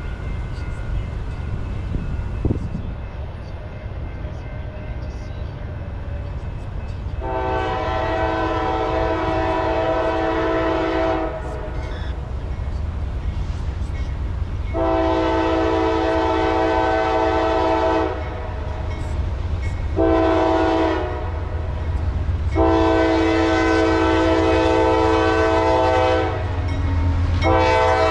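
Diesel locomotive horn sounding the grade-crossing signal, long, long, short, long, as the train approaches, over the growing rumble of the locomotive. Another horn blast starts near the end.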